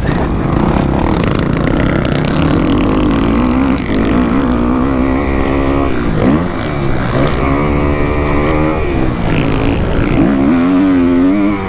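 Kawasaki KX250F four-stroke single-cylinder motocross engine ridden on the track, its pitch climbing and dropping several times as the throttle is opened and rolled off between jumps and turns. A low rumble of wind on the microphone runs underneath.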